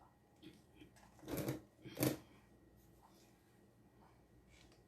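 Two short rustling handling noises, about one and a half and two seconds in, as the camera is moved and repositioned; otherwise faint room tone.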